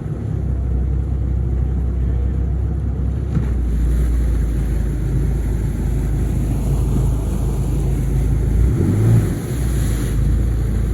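Motorboat engine running steadily under way, with a rushing noise; the engine note dips and shifts briefly about nine seconds in.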